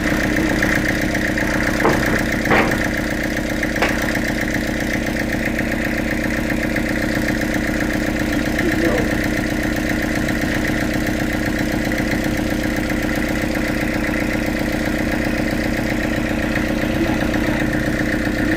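Sawmill machinery running steadily at constant speed, an engine-like hum, with a few short knocks in the first four seconds.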